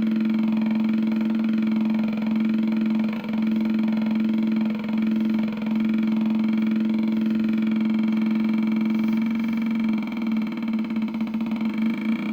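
Homemade two-oscillator electronic motorcycle-sound generator buzzing a steady, engine-like drone through its speaker, with a slow swirling phase shift in the tone as the two oscillators drift against each other. Near the end the drone turns choppy and pulsing.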